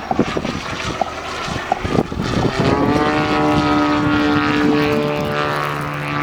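Piston engine and propeller of a large-scale radio-controlled Yak 54 aerobatic model flying overhead. A rough, crackly mix settles about two and a half seconds in into a steady propeller drone that rises slightly in pitch and then holds it.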